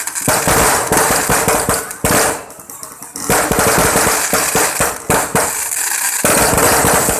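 A long string of firecrackers going off in rapid, dense crackling bursts, briefly thinning about two and a half seconds in before picking up again; these are the last seconds of the string.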